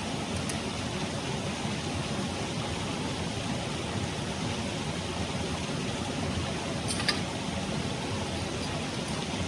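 Clear mountain stream rushing steadily over rocks, with a faint click about seven seconds in.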